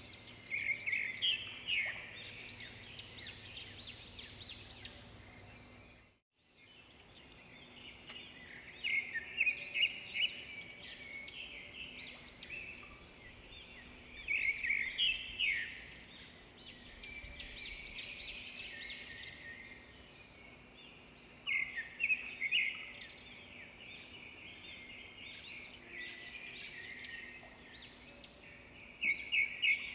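Wild birds chirping and calling in bursts of quick, rapidly repeated notes every few seconds, over a steady faint outdoor background. The sound drops out briefly about six seconds in.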